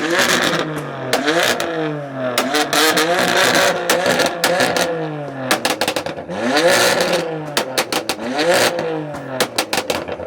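A car engine revved hard again and again, its pitch climbing and falling in quick cycles, with many sharp cracks and pops, bunched together about halfway through and again near the end.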